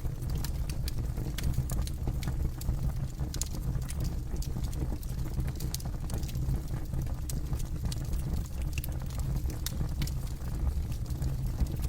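Campfire burning, with frequent sharp crackles and pops over a steady low rumble of flames.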